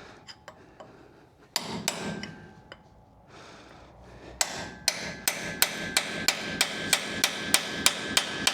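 A hammer striking metal: a few scattered knocks, then from about four seconds in a steady run of blows about three a second, each leaving a ringing note.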